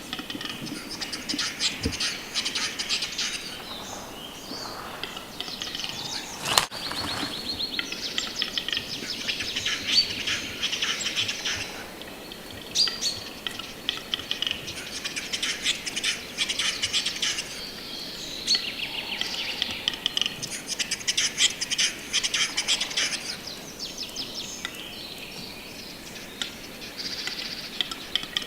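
Birds singing: repeated rapid, trilled phrases a few seconds long, high-pitched, with a single sharp click about six and a half seconds in.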